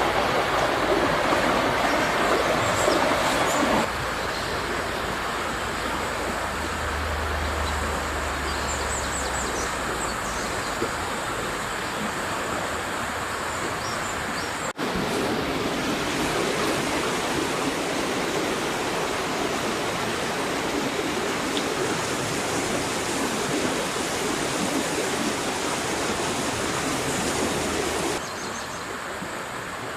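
Steady rush of a flowing river. The level and tone change abruptly three times, as if from one stretch of water to another.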